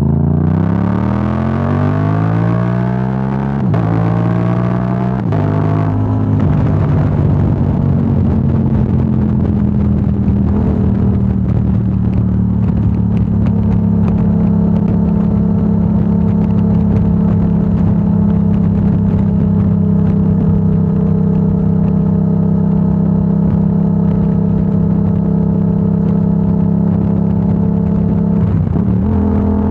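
2025 Yamaha R7's parallel-twin engine through a Yoshimura AT2 full exhaust, accelerating with rising revs and two upshifts in the first five seconds. It then holds a steady cruise, with a brief dip and rise in revs near the end.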